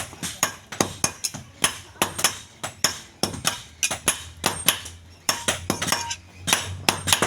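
Blacksmith's hammer striking metal on an anvil in a quick, uneven run of about three blows a second, each blow sharp with a short metallic ring.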